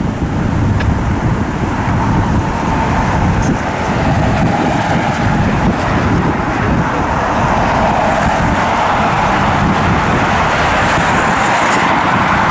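Jet airliner engines running, a steady whine over a broad rushing roar that swells toward the end, with wind buffeting the microphone.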